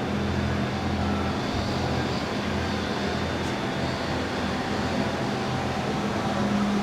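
Steady low engine hum with a constant drone, over general outdoor background noise.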